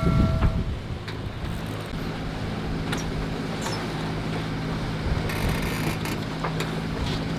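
A boat engine running steadily as a low drone, with wind and water noise over it. A bell-like metallic ring fades out just after the start.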